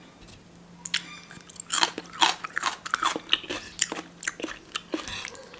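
Close-miked chewing of food: wet, crackly mouth clicks and crunches in an irregular run that starts about a second in.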